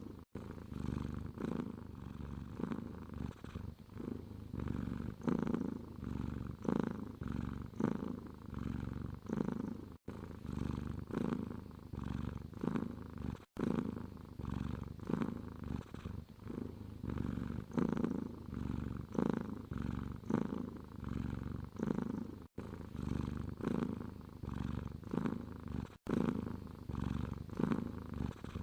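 Domestic cat purring, the low rumble swelling and fading with each breath about once a second, with a few momentary dropouts.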